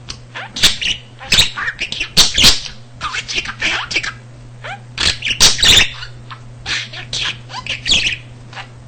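Pet budgie chattering and warbling: a fast, unbroken run of short, high chirps and squeaky sweeps that stops shortly before the end.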